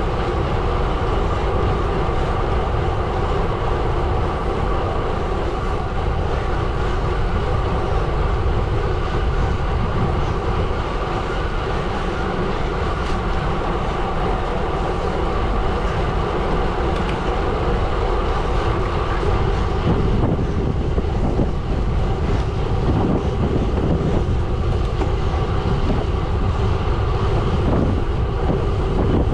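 Gravel bike tyres rolling over a gravel road: a steady, continuous rumble with a faint hum in it. The surface sound turns rougher and grittier about two-thirds of the way through.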